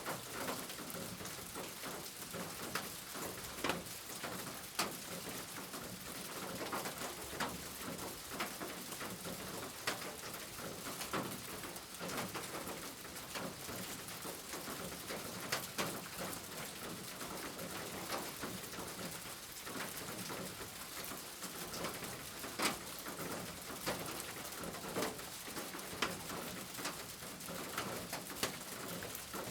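Steady rain falling, with many irregular individual drops and drips tapping sharply on a hard surface.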